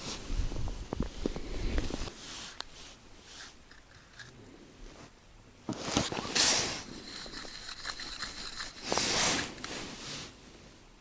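Scraping and rustling noises in short bursts, with a few sharp clicks in the first two seconds and the loudest bursts about six and nine seconds in.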